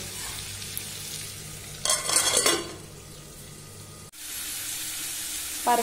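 Potato cubes frying in oil in a kadai, giving a steady sizzle, with a brief louder burst about two seconds in. The sound drops out for a moment just after four seconds, then the sizzle carries on.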